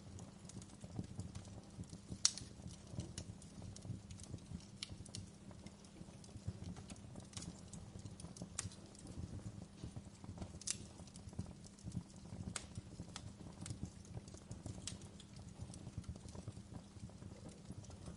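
Wood fire burning in a fireplace, crackling with irregular pops and snaps over a low steady rumble; one sharper pop stands out about two seconds in.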